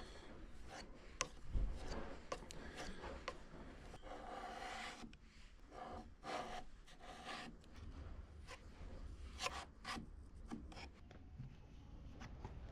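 Faint scraping of a scraper blade over wood in short, irregular strokes, taking the excess filler paste off the filled bore holes.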